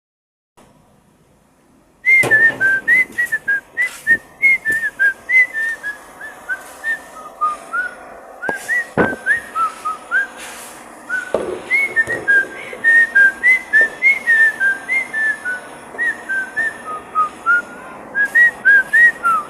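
A person whistling a quick tune of short notes that step up and down, starting about two seconds in, with a few knocks partway through.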